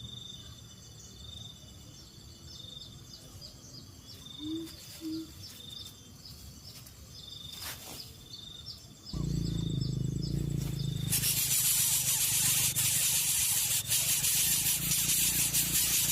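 Outdoor ambience: insects trilling, with a short high pulse repeating about once a second and two short low notes about four and a half seconds in. About nine seconds in, a much louder low rumble starts, joined about two seconds later by a loud, steady hiss.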